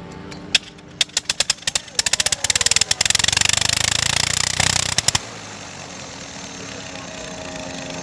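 Radial aircraft engine being started: a single cough, then firing strokes quickening over a couple of seconds until it catches and runs. It stops abruptly about two seconds later, so the start does not hold.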